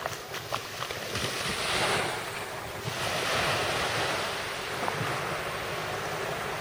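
Waves washing in, with wind buffeting the microphone; a few small clicks in the first second, then two swells of rushing water noise.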